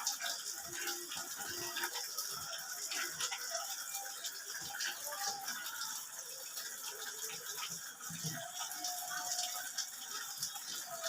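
Water running and splashing as a Javan myna is bathed, with scattered light clicks and rattles.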